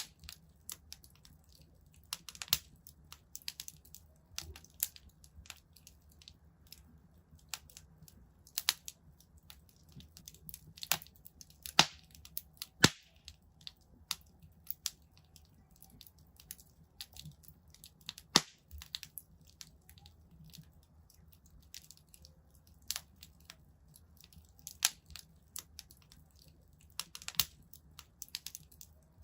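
Fireplace fire crackling: irregular sharp pops and snaps, a few of them loud, over a faint steady low rumble.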